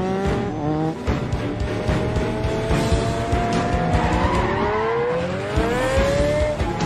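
Sports car engine revving up, its pitch rising between about four and six seconds in, with tyre squeal. Action-film score music plays under it.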